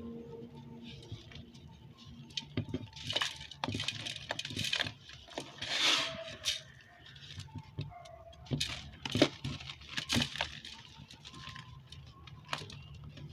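Dry, dusty red-dirt sand-cement chunks being crumbled: irregular crunches and gritty crackles, the loudest about six and nine seconds in.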